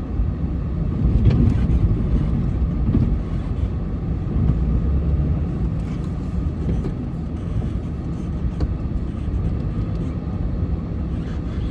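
Snowplow truck's engine running steadily while plowing, a continuous low drone with a few faint knocks.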